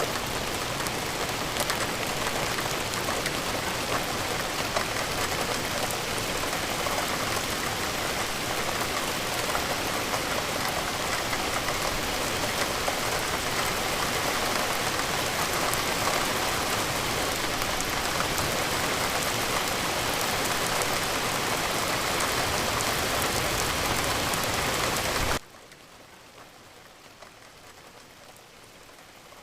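Steady rain falling: a dense, even hiss of raindrops on surfaces. About 25 seconds in it cuts abruptly to a much fainter hiss.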